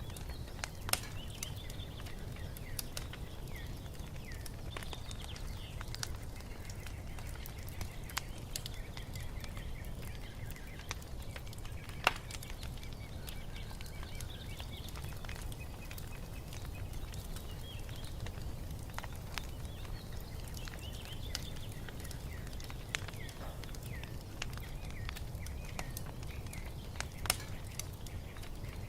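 Wood fire crackling, with scattered sharp pops over a low steady rumble, one pop standing out about halfway through. Small birds chirp faintly throughout.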